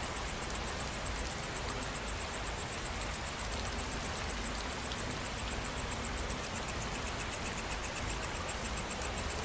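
Steady rain falling as an even hiss, with insects chirping high above it in a fast, even pulse; a second, lower insect trill joins about two-thirds of the way through.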